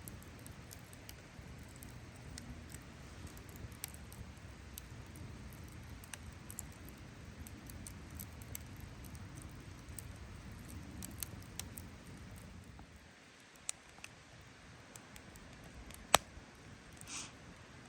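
Wood campfire crackling, with irregular small pops and one louder sharp pop near the end.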